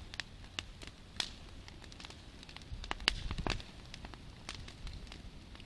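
Campfire burning, the wood crackling with irregular sharp pops over a low rumble. The loudest pop comes about three seconds in.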